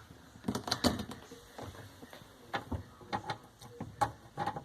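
Scattered light clicks and knocks of plastic dishwasher parts being handled and fitted into place in the tub.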